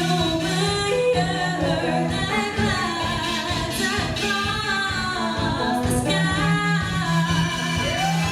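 Live band music with singing: a vocal melody over instruments and a sustained low bass note.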